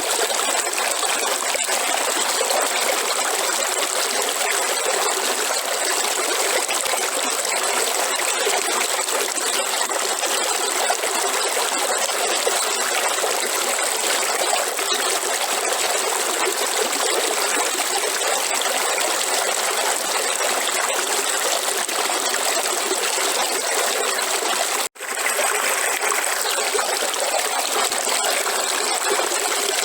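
River water flowing and trickling steadily, with a thin steady high tone above it. The sound drops out for an instant about 25 seconds in.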